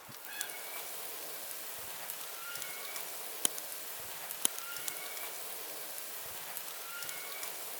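Outdoor ambience: a steady hiss with scattered crackles and clicks, and a bird repeating a short two-note chirp about every two and a half seconds.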